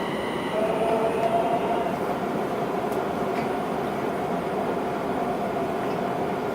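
Linimo HSST maglev train running between stations, heard from inside the car: a steady hum with no wheel or tyre noise. Its drive gives off a steady whine. A set of higher whine tones stops about half a second in, and a lower two-tone whine starts at the same moment and holds.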